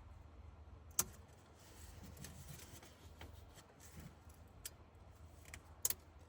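Quiet handling of small metal parts: a sharp click about a second in and a quick double click near the end, with a few faint ticks over a low steady hum.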